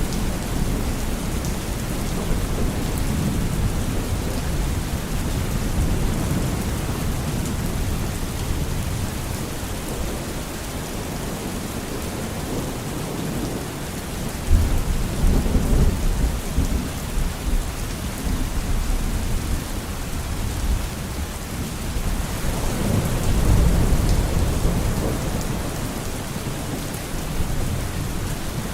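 Steady rain with thunder rolling. A sudden thunderclap about halfway through turns into a rumble, and a second long rumble swells up a few seconds later.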